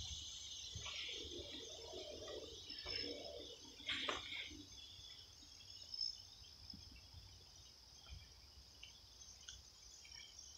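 Faint, steady high-pitched chorus of crickets and other insects, with a few light clicks and rustles, one a little louder about four seconds in.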